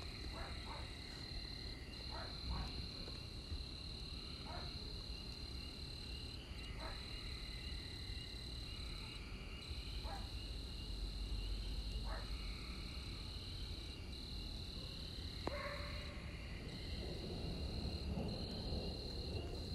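Night chorus of frogs and insects: a steady high trill with short breaks, with short croaking calls every second or two. A low rumble of distant thunder swells about halfway through and again near the end, and there is one sharp click a little after that.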